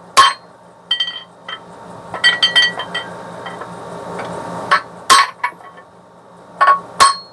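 Hammer taps on a brass drift, metal on metal, seating a bearing race in a Corvair rear-end housing: sharp ringing clinks at irregular intervals, with a quick run of several taps about two seconds in. The race sounds solid, as if bottomed in its bore.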